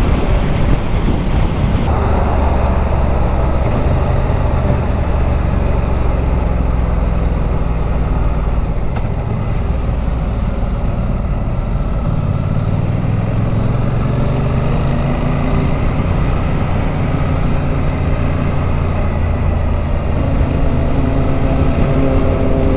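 Motorcycle engine running while riding, with wind rush over the microphone. The engine pitch climbs as it accelerates about halfway through, and again near the end.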